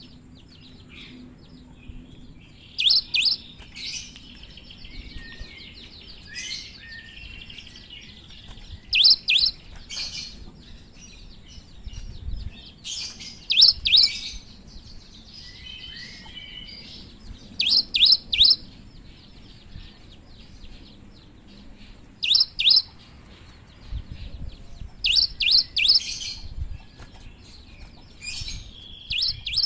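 Cinereous tit (gelatik batu) singing in loud bursts of two to four sharp, high notes every few seconds, with softer twittering chatter in between.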